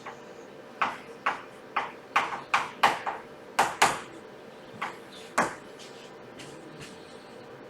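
About a dozen sharp taps or knocks in an irregular run over roughly four seconds, then stopping about two-thirds of the way through.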